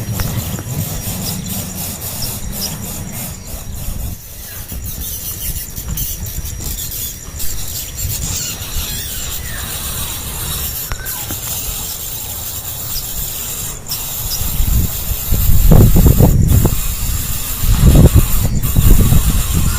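Hand-fed songbird nestlings begging with high squeaky calls, over a steady low rumble. Loud low rumbling handling noise swells twice in the last few seconds.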